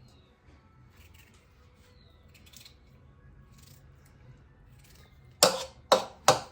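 Three sharp, loud strokes about half a second apart near the end, each dying away quickly, after a stretch of faint small handling sounds.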